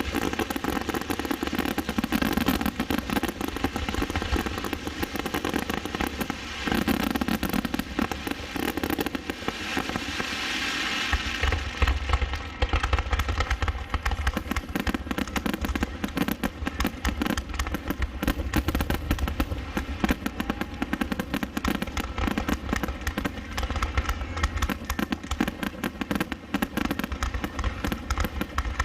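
Fireworks show finale: a dense, unbroken barrage of aerial shell bursts and crackling, many bangs a second.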